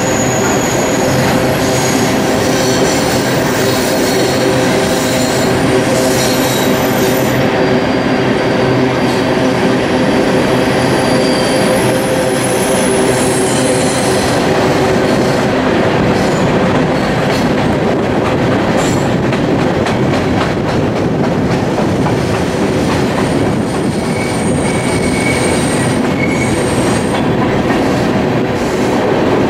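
Two freight trains rolling past together, a coal train's empty open hoppers and a double-stack container train, with a steady loud rumble and clatter of wheels on rail. Thin high-pitched wheel squeal comes and goes throughout.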